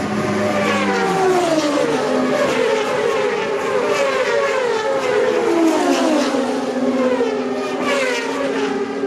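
Racing motorcycles passing one after another, each engine note falling in pitch as it goes by, with several bikes overlapping.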